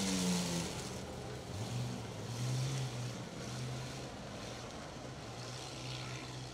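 Engines of old street cars running on a dirt track as they drag boats, over a steady hiss of noise. One engine's drone drops in pitch just at the start, and another rises about a second and a half in and then holds steady.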